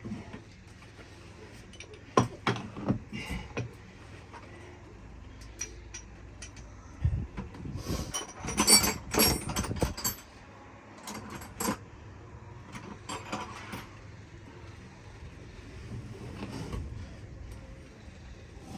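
Hand tools, wrenches and sockets, clinking and knocking against metal while the starter cable connections are being worked loose. The clanks come in irregular clusters, with the busiest, most ringing rattle about halfway through.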